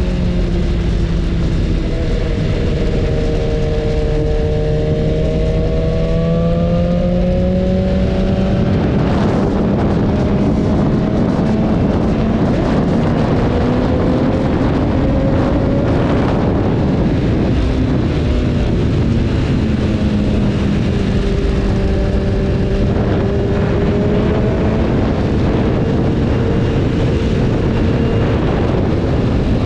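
BMW S1000RR's inline-four engine running while riding, its pitch rising and falling slowly with the throttle, under a steady rush of wind and road noise.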